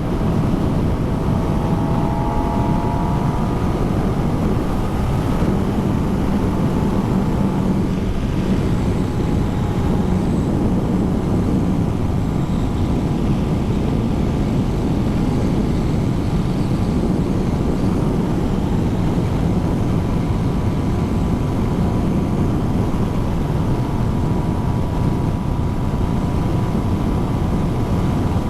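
Kawasaki ZX10R's inline-four engine running at speed under heavy wind rush on the rider's microphone. The engine note rises over the first few seconds, then holds a steady drone.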